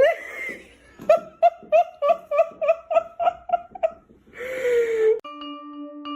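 A voice gives a short rising cry, then a rapid run of about a dozen short calls on one pitch, about three a second, and a falling cry. About five seconds in, chime-like music starts.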